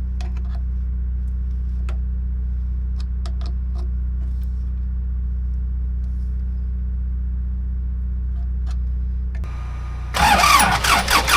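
A steady low hum, then about ten seconds in the Ford 555 backhoe's rebuilt diesel engine is cranked over by the starter, with a rhythmic pulse about three times a second.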